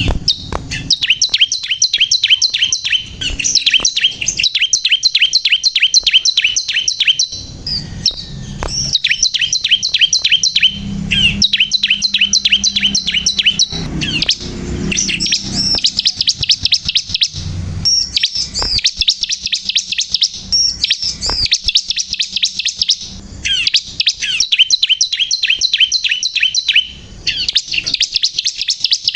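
Bar-winged prinia (ciblek kristal) in full song: long runs of fast, high, repeated chirping notes, several a second, broken by short pauses.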